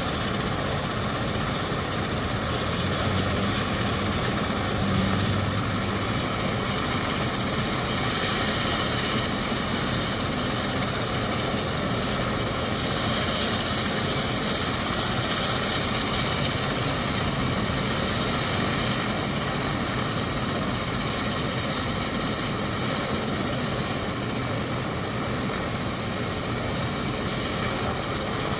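Medical helicopter running steadily, a continuous even engine noise that neither rises nor falls.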